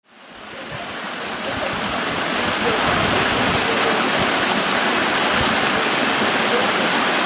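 Waterfall rushing, a steady roar of falling water that fades in over the first couple of seconds and then holds even.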